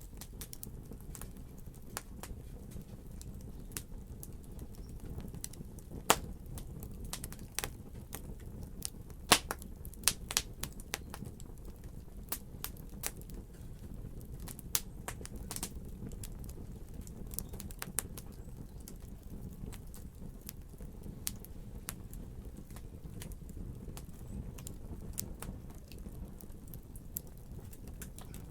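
Fire burning in a fireplace, crackling with frequent sharp pops over a steady low rumble. The pops come irregularly, several a second at times, with the loudest snaps about six and nine seconds in.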